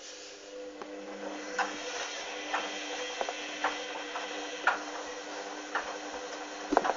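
Hoover Dynamic front-loading washing machine in its main wash: the drum motor starts up and hums steadily as the drum turns, with a short swish about once a second as the load tumbles.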